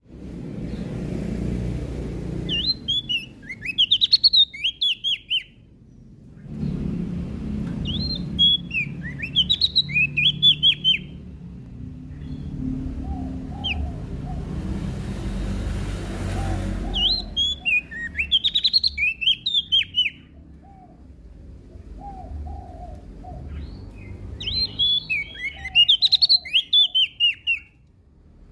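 A prenjak daun (Lombok leaf warbler) singing in four bursts of rapid, high, sharply gliding chirps, each about three seconds long and spaced several seconds apart. Fainter, lower chirps come between the bursts, over a steady low rumble.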